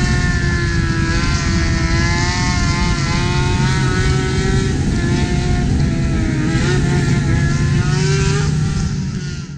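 Sport motorcycle engines running at speed on a highway, their pitch wavering up and down with the throttle, under heavy wind and road noise. The sound fades out near the end.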